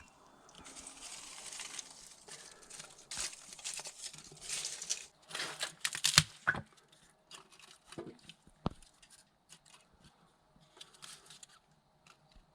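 Kindling and paper being crumpled, torn and snapped, in irregular rustling spells with a few sharp cracks, thinning out into scattered clicks in the second half.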